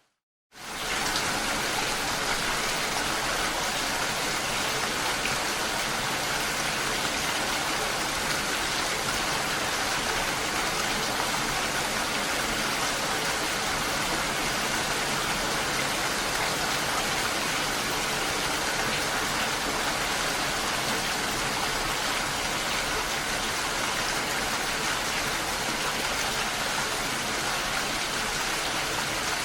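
Steady, even rain, starting after half a second of silence at the very start where the recording cuts and resumes.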